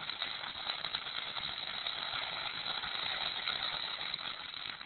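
Firework fountain spraying sparks with a steady hiss and faint crackle, dying out suddenly at the very end as it burns out.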